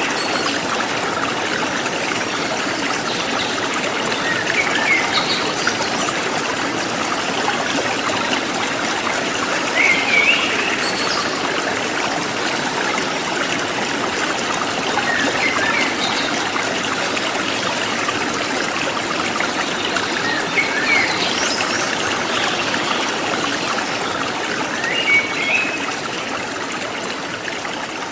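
Forest stream flowing steadily, with short bird chirps every few seconds; the water gets quieter near the end.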